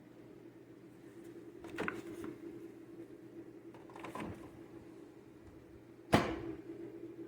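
A mini fridge hums steadily while it is handled, with rattles and creaks about two and four seconds in. About six seconds in comes one sharp knock, the loudest sound, like its door being shut.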